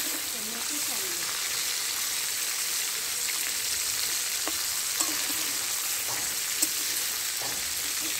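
Turmeric-coated chicken pieces sizzling in hot oil in a metal wok, with a steady frying hiss. A metal spatula stirs and taps against the pan now and then, giving a couple of sharp clicks in the second half.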